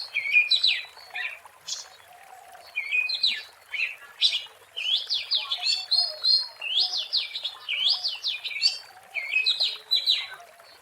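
Oriental magpie-robin (kacer) singing: a run of loud, whistled phrases with quick rising and falling sweeps, with a short pause about two seconds in.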